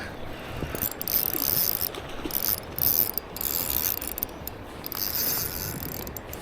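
Shimano Vanford spinning reel working as a hooked fish is played in, its mechanism rasping and clicking in uneven spells.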